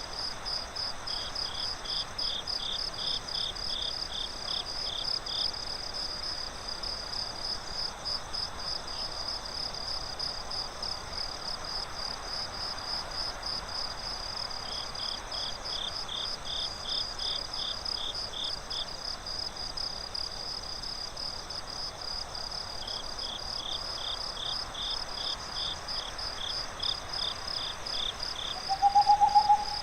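Night insect chorus: crickets chirp steadily in a fast pulse, joined three times by a second, lower cricket trilling for a few seconds. Near the end an owl hoots briefly.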